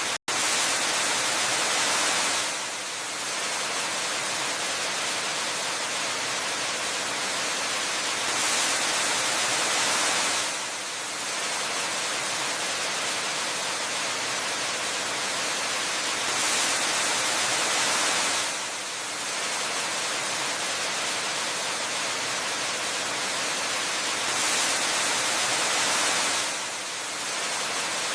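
Steady rushing of a waterfall, a dense, even hiss like white noise, swelling slightly louder about every eight seconds in an even repeat. It cuts out for an instant just after the start.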